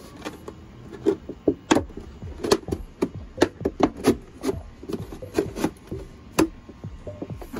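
A wooden stick being worked through a hole in a plastic milk jug, making irregular sharp clicks and knocks, roughly two a second, with some rubbing of wood on plastic.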